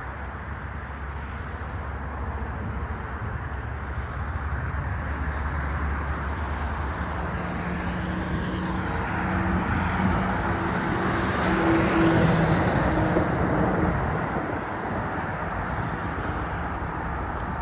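Road traffic running steadily, with one vehicle passing close, its engine noise swelling to a peak about twelve seconds in and then fading.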